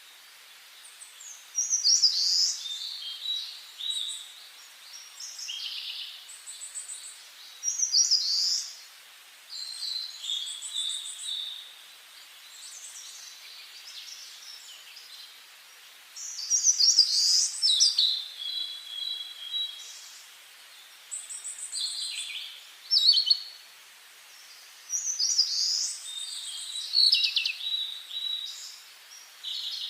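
Songbirds singing: short phrases of whistled notes and fast high trills, repeated every few seconds with brief pauses, over a faint steady background hiss.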